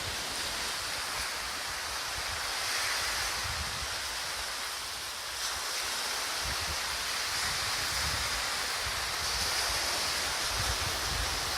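Atlantic surf washing steadily onto the beach, with wind gusts buffeting the microphone in low rumbles.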